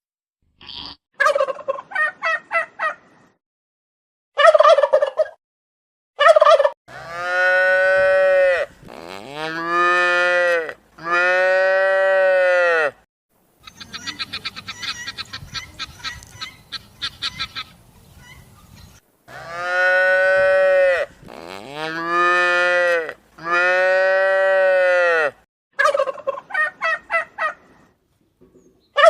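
A series of farm animal calls: cattle mooing in long, drawn-out calls, two runs of three, alternating with bursts of rapid, stuttering poultry calls, separated by short silent gaps.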